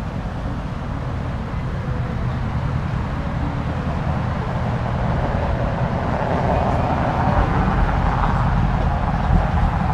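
Car engine and exhaust running with a low, steady rumble that grows louder over the second half, as a car draws closer.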